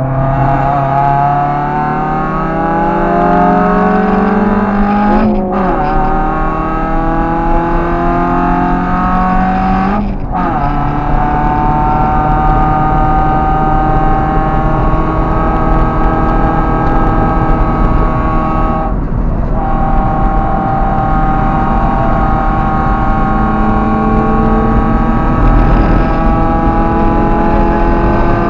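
Car engine heard from inside the cabin under hard acceleration on track. Its pitch climbs, then drops sharply at gear changes about five and ten seconds in. After that it holds a high, fairly steady note, with a brief break a little past the middle.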